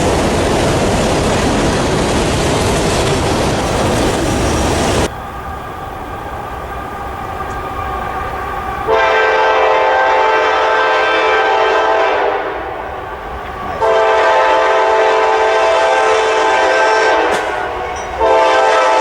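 Loud rushing rail and wheel noise of a train passing close by, which cuts off abruptly about five seconds in. Then a locomotive's multi-chime air horn sounds two long blasts and a short one, the opening of the standard grade-crossing signal.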